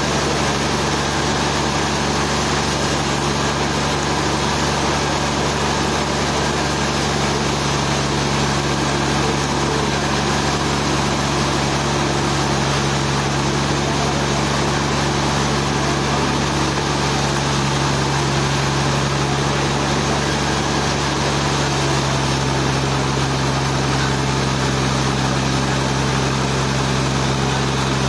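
Sawmill engine running steadily with an even hum that shifts slightly in pitch about three-quarters of the way through.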